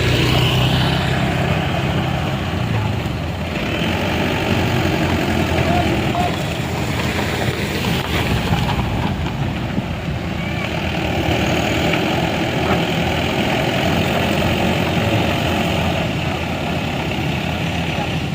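A vehicle engine running steadily, with faint voices behind it.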